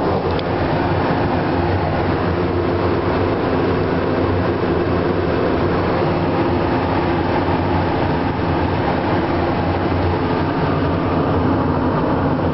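Cessna Citation CJ2+ twin-turbofan business jet during its takeoff: a steady rumble of engine and airframe noise, with a low hum under it.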